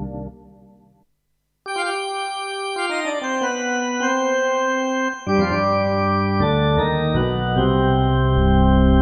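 Kurzweil K2500R synthesizer playing its factory presets: one sound fades out in the first second, a brief silence follows, then a new patch plays sustained chords that change every second or so and swell louder toward the end.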